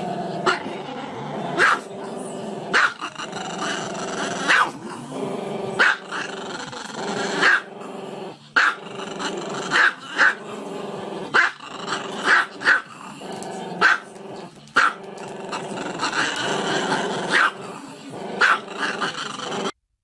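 Small black-and-tan dog growling and grumbling without a break, with sharp barks about once a second over the top; the sound cuts off abruptly near the end.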